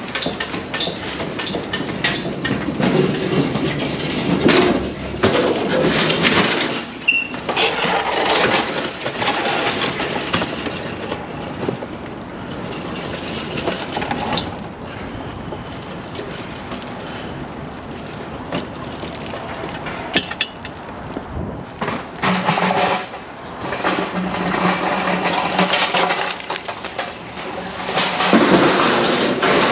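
Metal rattling and clanking of freight being unloaded from a truck trailer, coming and going in loud stretches with a short lull past the middle.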